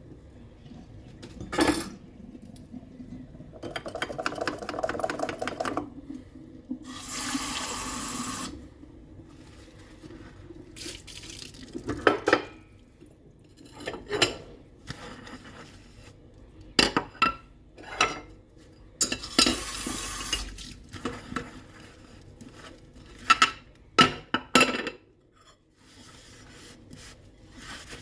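Dishes and cutlery clinking and knocking against each other as they are washed by hand in a sink, with two short runs of tap water.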